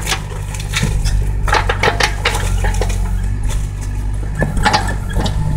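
Excavator's diesel engine running steadily, with a cluster of sharp metallic clinks and clanks about one and a half to two and a half seconds in and a few more near the end.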